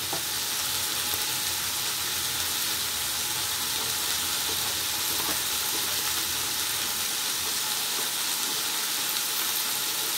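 Vegetables and meat sizzling steadily in hot oil in a frying pan, a constant even hiss, with a few faint taps of a knife on a wooden chopping board.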